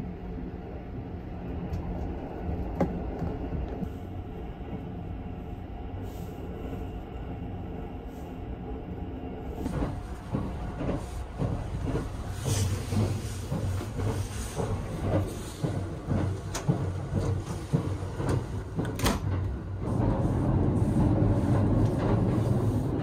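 Sunrise Izumo sleeper train running, heard from inside the car: a steady low rumble with a faint hum. About ten seconds in, many sharp clicks and knocks join the rumble, and near the end the rumble grows louder.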